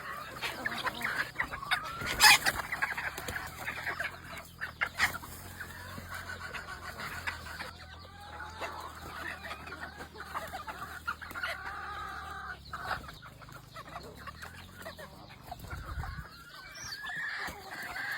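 Chickens clucking and calling on and off, with a sharp click about two seconds in that is the loudest sound, and a softer one a few seconds later.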